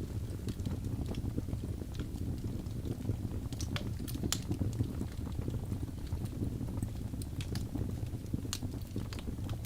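Birch wood burning in a fireplace: a steady low rumble of the fire with irregular sharp crackles and pops, several of them bunched a little before the middle.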